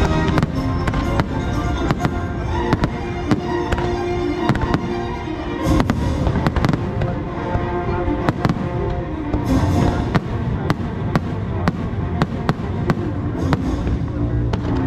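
Aerial fireworks bursting in quick succession, a stream of sharp bangs, over loud show music.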